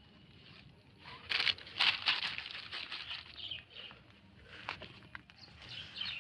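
Plastic litter rustling and crinkling as it is picked up and handled, in bursts starting about a second in, loudest for the next second or so and trailing off, with a few sharp clicks later.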